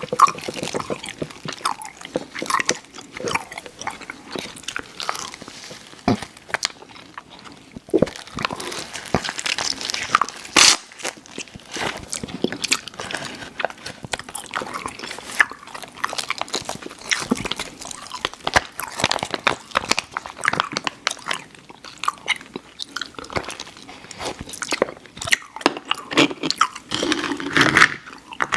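Close-miked mouth sounds of chewing sour, chewy Airheads Xtremes candy: irregular wet smacks and clicks, with one sharper click about ten seconds in.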